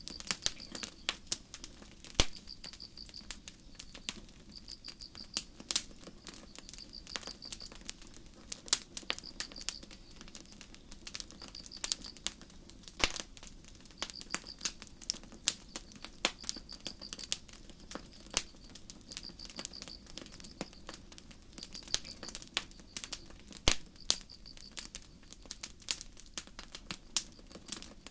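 Campfire crackling with irregular sharp pops, over a low steady rush of flame. Crickets chirp at the same time in short pulsed trills, repeating every second or two.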